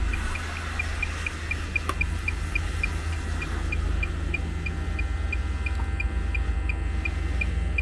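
Tracer-gas leak detector beeping fast and evenly, a little over four short high beeps a second. The fast rate marks tracer gas picked up near the leaking water pipe.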